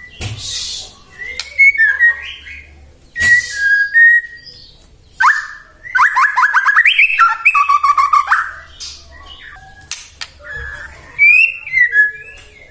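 White-rumped shama (murai batu) singing: loud whistled phrases and fast trills in bursts with short pauses, mixed with a few harsh rasping notes.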